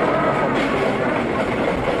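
R32 subway car running along the track, a steady rumble of wheels on rail with a rail-joint click about halfway through.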